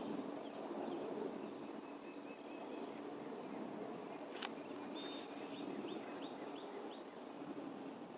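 Small birds chirping in short high notes, with a quick run of chirps about five seconds in, over a steady outdoor background hiss. A single sharp click comes about four and a half seconds in.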